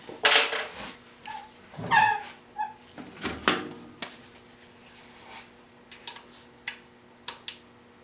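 Metal hand tools knocking and clanking against the engine-block adapter as an Allen wrench and socket are worked: three louder knocks in the first few seconds, then a few light clicks. A faint steady hum runs underneath from about a second in.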